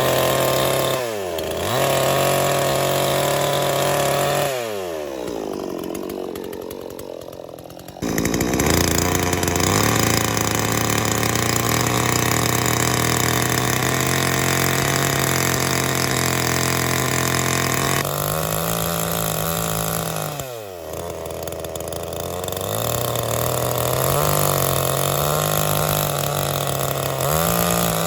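Two-stroke chainsaw engine running at high revs, falling back in pitch several times (about a second in, around four to eight seconds in, and again a little past twenty seconds) before picking up again, with a long steady full-throttle stretch in the middle.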